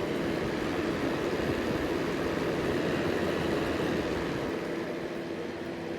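Fine Elements upright fan heater running on its hot setting: a steady rush of air from the fan with a constant low hum under it.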